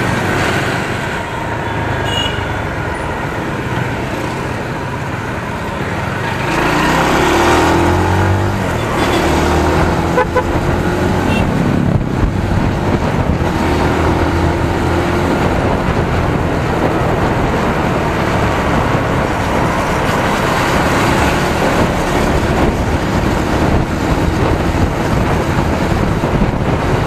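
Benelli TNT 25 single-cylinder 250 cc motorcycle engine running while riding in dense traffic, with wind rush and surrounding vehicles around it. Short horn toots come from the traffic between about 7 and 14 seconds in.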